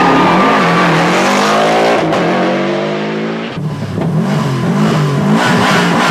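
Subaru Impreza rally car's turbocharged flat-four engine pulling hard with rising revs and a brief dip for a gear change. After a cut about halfway through, the engine is revved up and down in quick blips.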